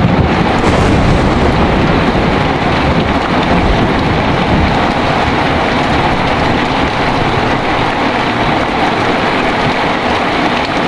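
Heavy rain pouring steadily, with the low rumble of thunder rolling over the first few seconds and then easing off into the downpour.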